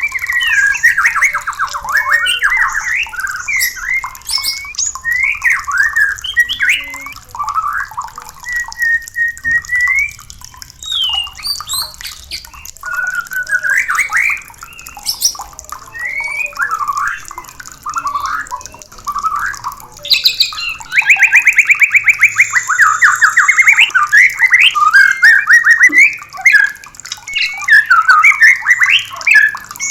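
White-rumped shama song: a rapid series of varied whistled phrases. About two-thirds of the way through it breaks into a fast, loud run of rapidly repeated notes.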